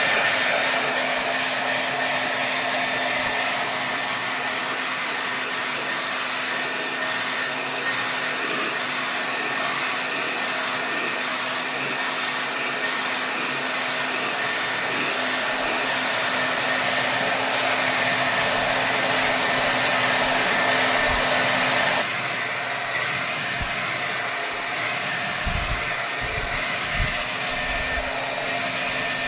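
Hair dryer blowing steadily at full power, a continuous dense rush of air with a faint motor hum underneath. About 22 seconds in the sound shifts abruptly and gets slightly quieter, and a few faint low bumps come near the end.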